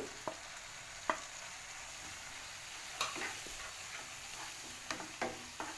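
Hot oil sizzling in a pan as a spatula stirs a frying tempering with freshly added coriander leaves. A few sharp taps and scrapes of the spatula against the pan.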